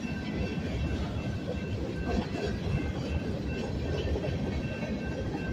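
Freight cars of a Union Pacific train rolling past a grade crossing: a steady rumble and clatter of steel wheels on the rails. Over it, the crossing's warning bell rings in a steady repeating ding, about twice a second.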